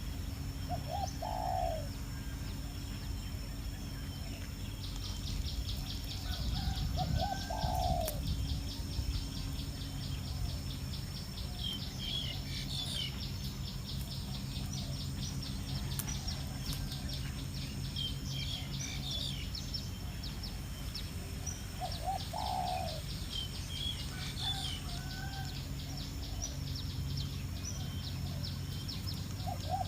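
A dove cooing, four low calls several seconds apart, over scattered high bird chirps. A fast, steady high-pitched trill starts about five seconds in and runs on beneath them.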